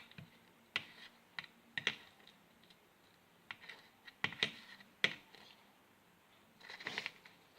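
A fork mashing dog food in a small container: irregular clicks and taps of the fork against the container, with short pauses between.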